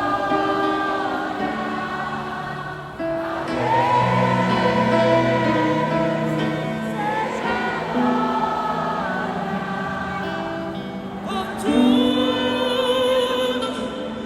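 Live Christian worship music with choir and singers holding sustained notes over a band, swelling louder twice.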